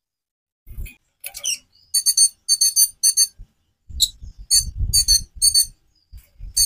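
Konin (kolibri ninja), a small sunbird, singing in quick bursts of short, high, metallic chattering notes. A low fluttering rumble sits under the later bursts.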